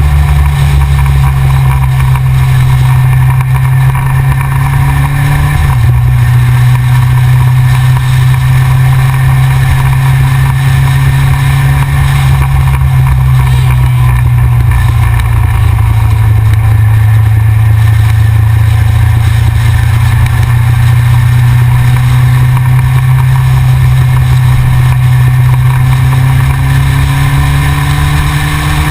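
Yamaha XJR motorcycle's air-cooled inline-four engine running under way. The steady engine note shifts briefly about six seconds in, and faint rising engine notes come in near the end.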